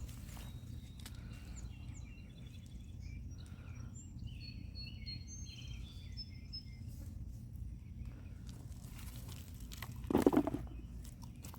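Outdoor ambience: small birds chirping in short high calls over a steady low rumble. A brief louder thump comes about ten seconds in.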